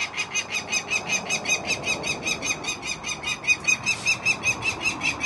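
Peregrine falcon calling in a rapid, even chatter of short harsh notes, about seven a second, the falcon's kakking call of agitation at an intruder.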